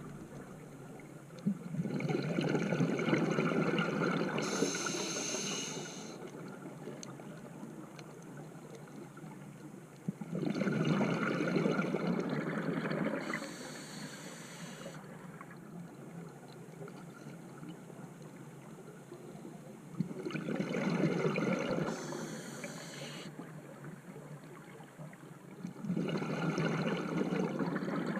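Scuba diver breathing through a regulator underwater: a long bubbling rush of exhaled air about every eight or nine seconds, four times, each followed by a short high hiss of inhalation through the regulator.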